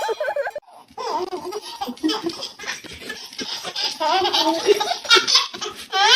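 People laughing hard, in continuous peals that start about a second in after a brief pause.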